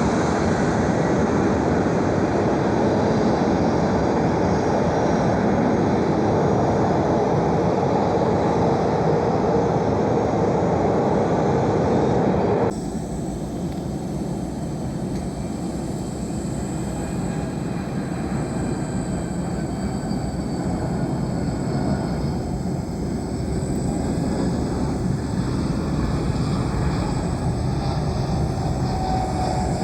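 Jet aircraft engines running loud and steady. The sound cuts off abruptly about thirteen seconds in and gives way to a somewhat quieter, steady jet noise with a thin high whine.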